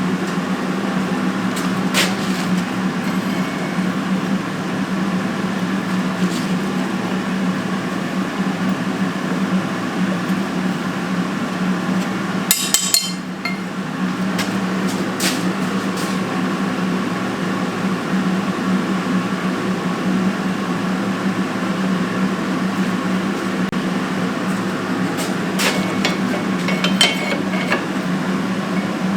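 Blacksmith's forge running with a steady roar and a low hum while the steel heats. A few sharp metallic knocks and clinks come through it: one early, a quick cluster about halfway through, one soon after, and two near the end.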